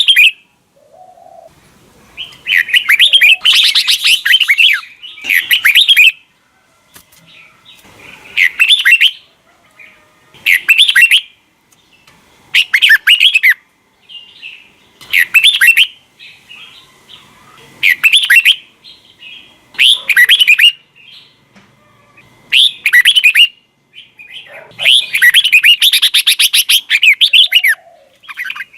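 Red-whiskered bulbul singing loud, short warbled phrases about every two to three seconds, with two longer runs of song, one near the start and one near the end.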